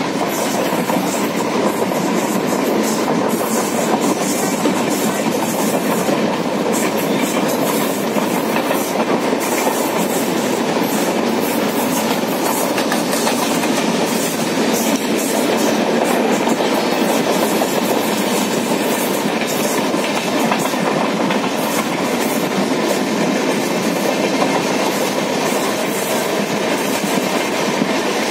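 Running noise of a moving passenger train heard from on board: a steady rush of wheel and rail noise with irregular clicks of the wheels over rail joints.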